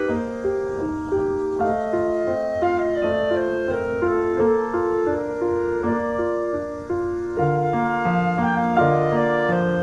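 Piano music: a flowing melody of quick notes, with lower bass notes joining about seven seconds in.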